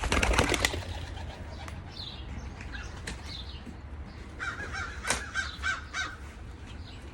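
Birds calling: a short loud rustle at the start, then a run of about five harsh, evenly spaced calls a little past the middle, with fainter calls scattered throughout.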